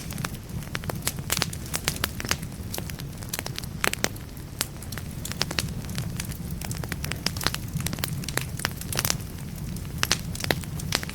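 Wood fire burning in a fireplace: frequent sharp crackles and pops of the burning logs, irregular and of varying strength, over a steady low rumble of the flames.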